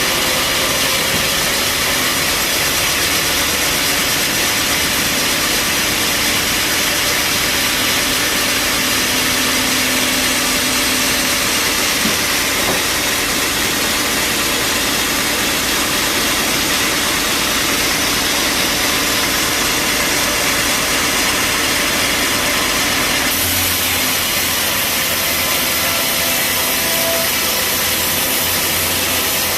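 Bandsaw sawmill running steadily: a loud, even machine noise, whose sound changes about 23 seconds in, with a deeper rumble coming in.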